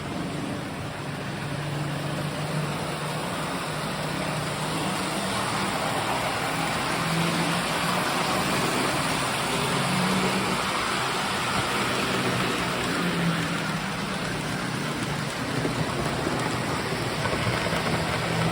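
Several postwar Lionel O-gauge trains running together on three-rail tinplate track: a steady rolling rattle of wheels on the rails over a wavering hum from the locomotive motors.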